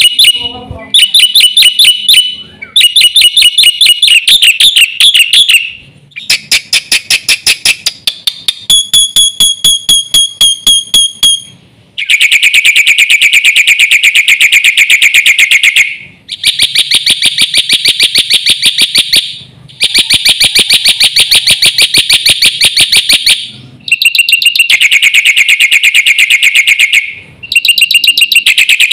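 Black-winged myna (jalak putih) singing loudly in rapid runs of repeated high notes, each run lasting a few seconds with brief pauses between. The runs are the mimicked 'isian' phrases of a bird in full song.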